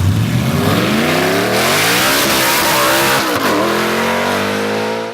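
Car engine accelerating hard, rising in pitch, dipping sharply twice and climbing again, then cutting off suddenly at the end.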